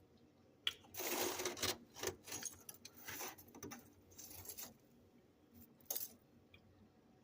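Spoon scraping and crunching through freezer frost, a series of short, gritty crunching strokes with clinks, opening and ending with a sharp click.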